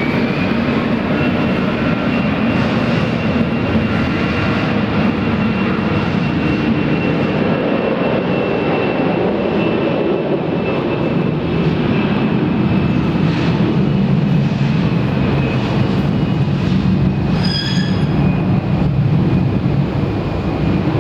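Airbus A320 jet engines at takeoff thrust: a loud, steady roar with a high whine held level. The whine has just finished rising as the engines spooled up.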